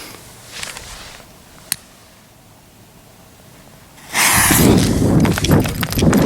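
Short hisses and a click, then about four seconds in a sudden loud blast from a 75 mm (3-inch) firework shell, which carries on as a rumble full of crackles.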